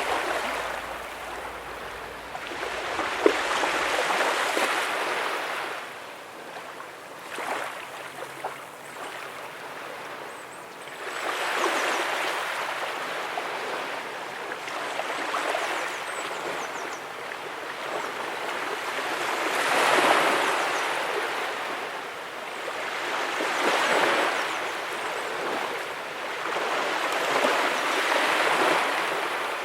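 Small ocean waves breaking and washing up a beach, each swelling to a rush and fading every few seconds. There is a single sharp click about three seconds in.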